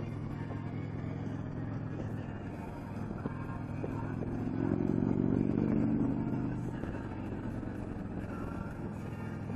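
Touring motorcycle engine running at road speed, heard from the rider's seat. It grows louder about halfway through, then eases back.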